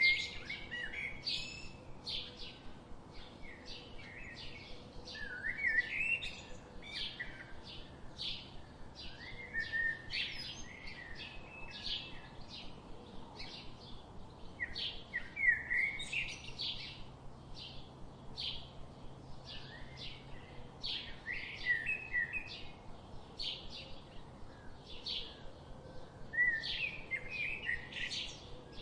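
Birds chirping without a break, many short quick calls overlapping, with a few louder calls now and then.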